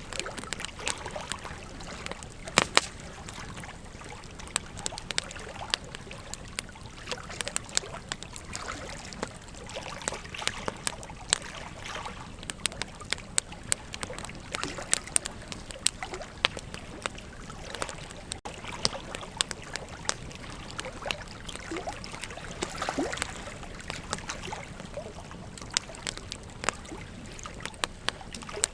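Wood campfire crackling, with irregular sharp pops and snaps, over a steady rush of flowing river water.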